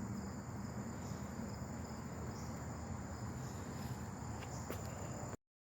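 Insects chirring in a steady high-pitched drone over a low background rumble, cutting off suddenly near the end.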